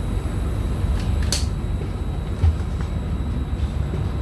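Low, steady rumble heard from inside the carriage of a Trenitalia double-decker regional train standing at a platform, with a short hiss about a second in and a single thump about halfway through.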